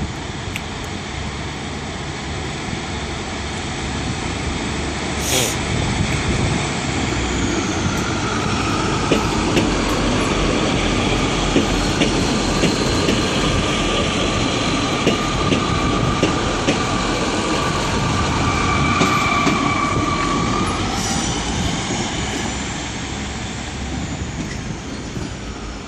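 Train passing at low speed, its rumble building to a peak midway and fading near the end. Its wheels squeal against the rails on and off, and there are sharp clicks over the rail joints, the loudest about five seconds in.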